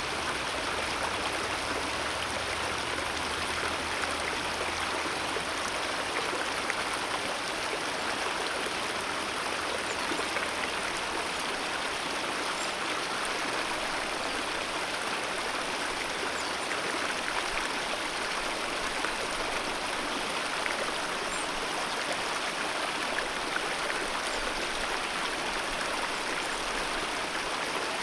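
Alpine mountain river flowing: a steady, unbroken rush of water.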